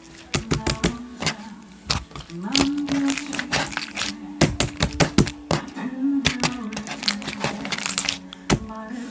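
Slime being squeezed and pressed, giving irregular sharp clicks and pops, some in quick clusters. A low steady tone sounds underneath, stepping between pitches from about two and a half seconds in.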